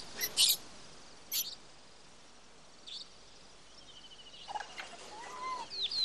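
Forest bird calls: three short, sharp high calls in the first three seconds, then a flurry of chirps and quick whistling glides near the end, over a faint, evenly pulsed insect trill.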